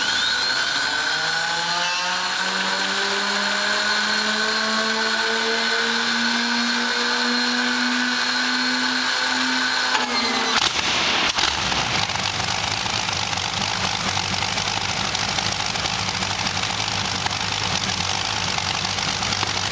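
Allison V-1710 V12 aero engine, running on LPG, being started: a starter whine climbs steadily in pitch for about ten seconds, then the engine catches with a sudden change and settles into a steady, rough idle.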